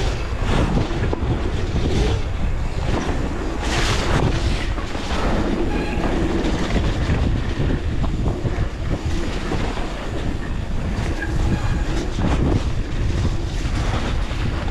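Wind buffeting the microphone and mountain bike tyres rumbling over a dirt forest trail at speed, with frequent knocks and rattles as the bike goes over rough ground.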